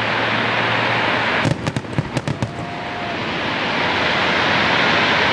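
Fireworks display going off: a continuous dense crackle, with a quick run of sharp bangs about one and a half to two and a half seconds in.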